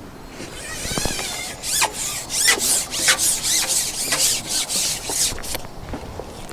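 Rapid rubbing or scraping strokes, about three a second, with a short squeaky scrape just before them.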